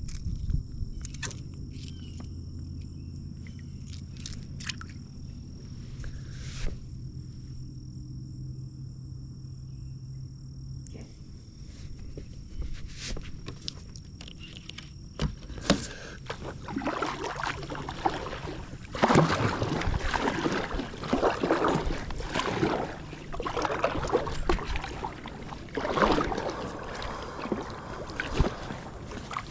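Paddling an inflatable packraft: water splashing and sloshing in uneven strokes every second or two through the second half, after scattered small knocks and a low steady hum in the first part.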